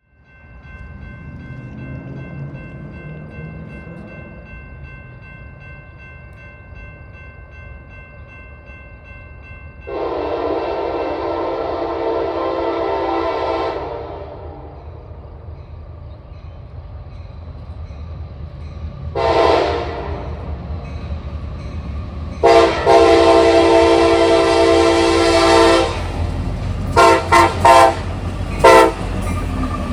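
Freight locomotive horn sounding a series of blasts: a long one about ten seconds in, a short one, another long one, then several quick short toots near the end. Under the horn, the low rumble of the approaching train grows louder.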